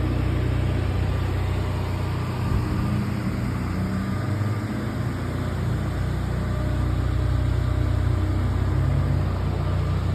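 Exhaust note of a Mazda RX-7 FD's twin-turbo 13B rotary engine running through an X-Force muffler with its electric valve closed. It runs steady, with a short wavering in pitch a couple of seconds in.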